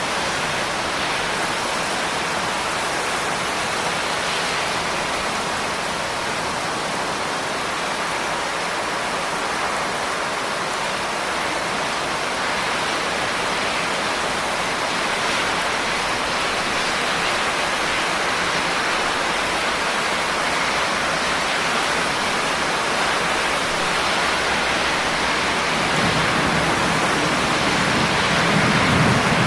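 Steady heavy rain falling as an even wash of noise. Near the end a low rumble of thunder comes in under it.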